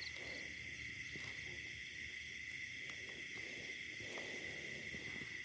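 Faint chorus of night insects: a steady, high-pitched drone, with a pulsing chirp at the very start. A few soft rustles or ticks come through now and then.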